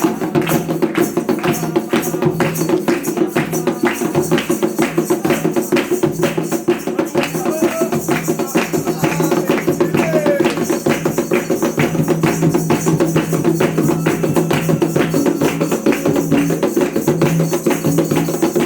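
Candomblé ceremonial music: voices chanting over a fast, steady beat of hand percussion with jingling or rattling strikes.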